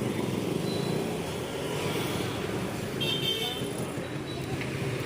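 Steady rumble of vehicle noise, with a brief high-pitched toot about three seconds in.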